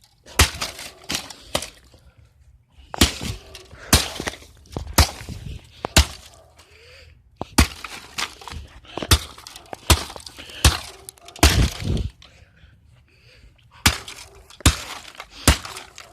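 A laptop being smashed with repeated hard blows, its casing cracking and breaking. About twenty sharp impacts come in irregular clusters, with a pause of a second or two near the end.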